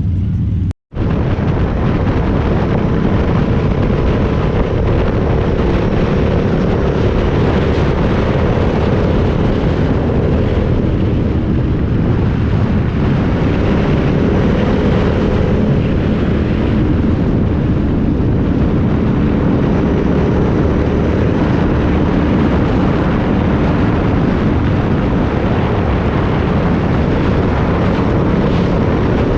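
A motorcycle running steadily at road speed, its engine drone mixed with loud wind noise on the microphone. The sound cuts out for a moment about a second in.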